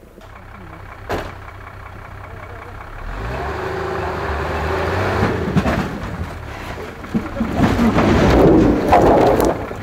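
A truck engine running and growing louder from about three seconds in, with a few sharp knocks along the way.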